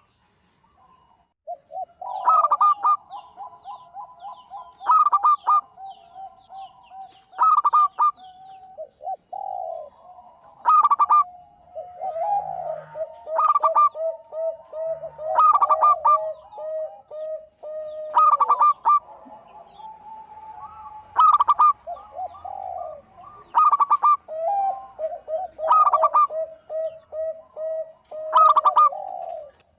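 Zebra dove (perkutut) singing actively: a sharp, loud note about every two and a half seconds, with runs of soft, rapid staccato coos in between.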